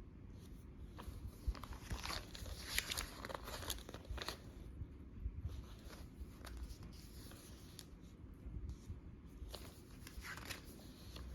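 Paper rustling and crinkling in irregular swishes and soft clicks as the thick pages of a filled journal are handled and turned.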